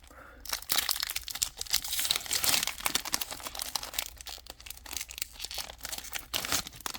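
Foil wrapper of a Pokémon 151 booster pack crinkling and tearing as it is ripped open by hand, a dense crackle that is busiest about two to three seconds in and eases off near the end.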